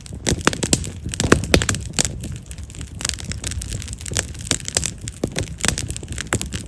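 Wood fire of split wild mountain cherry (yamazakura) logs burning, with dense, irregular crackling and popping, some pops sharp, over a low rumble of flame.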